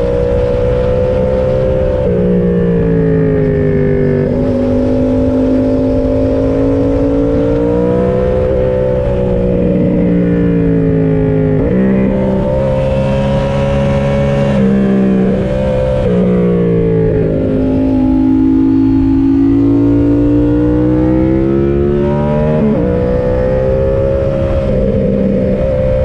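Yamaha MT-07's parallel-twin engine under way on the road, its revs rising and falling with several quick gear changes, over a steady rush of wind noise.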